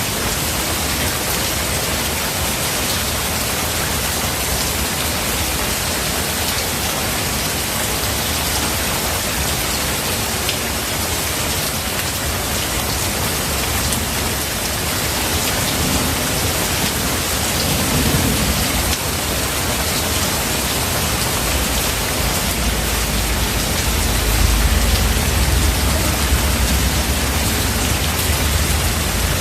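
Steady heavy rain falling, with rolling thunder: a low rumble just past the middle, then a deeper, longer roll building over the last several seconds.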